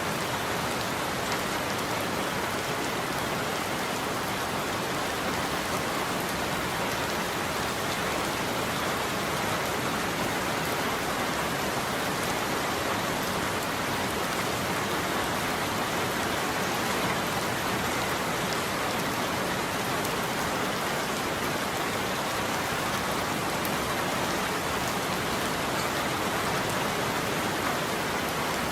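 Heavy rain falling steadily on a roof: an even, unbroken hiss with no thunder.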